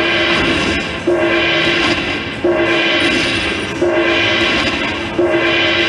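Slot machine playing a repeating electronic chime, a ringing gong-like tone struck about every second and a half, four new strikes over the span.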